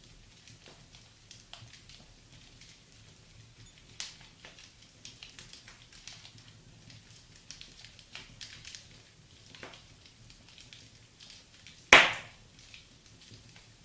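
Fire in a fireplace crackling with a steady scatter of small clicks. A sharper pop comes about four seconds in, and a much louder pop near the end.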